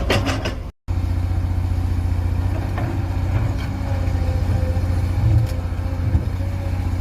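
Excavator's diesel engine running steadily, with a few short clanks over it. The sound drops out briefly just under a second in, then picks up again.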